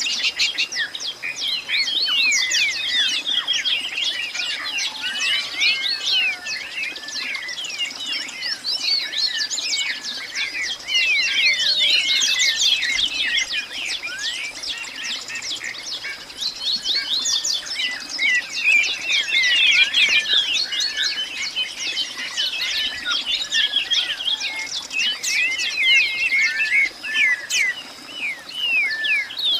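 A dense chorus of many birds chirping and calling at once, short quick notes overlapping without a break, over a faint steady high insect-like drone.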